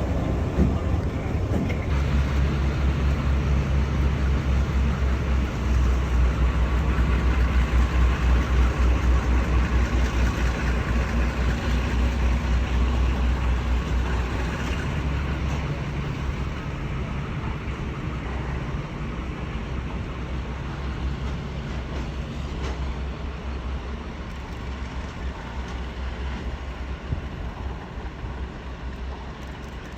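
Diesel locomotive engine running with a steady low hum, gradually getting quieter over the second half.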